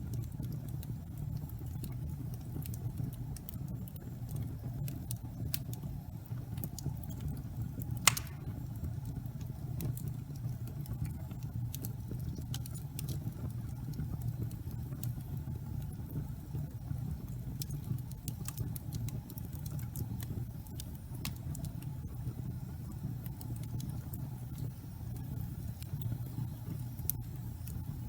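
Wood fire burning slowly in a fireplace: a steady low rumble of flames with scattered crackles, and one sharp, loud pop about eight seconds in.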